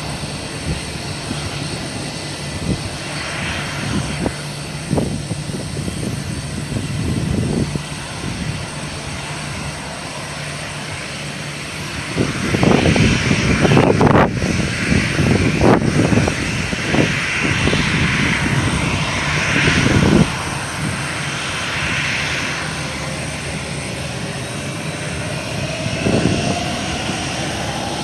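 Jet airliner engines running steadily, with a louder, uneven rushing stretch in the middle and a slowly rising whine near the end.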